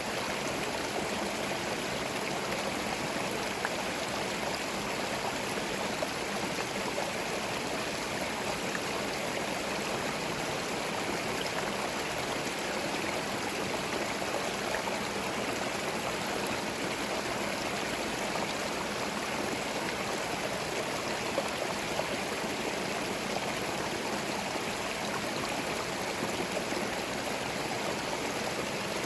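Forest stream flowing steadily, water babbling and gurgling over stones.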